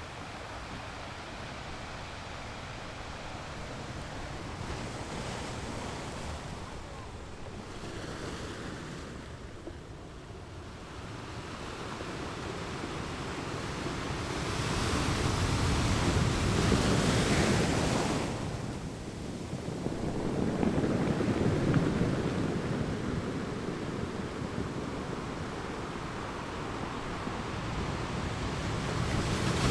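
Ocean waves washing onto a shore: a low steady wash for the first part, then a large wave surges in and recedes about halfway through, a second follows soon after, and another builds near the end.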